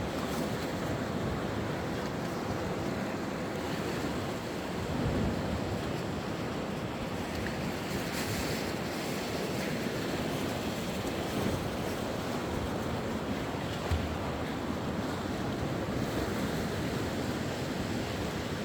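Sea waves washing onto the shore, a steady rush of surf that swells now and then, with wind buffeting the microphone.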